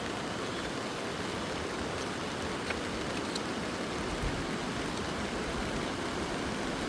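Rain falling steadily, an even hiss with a couple of sharper drop ticks near the middle.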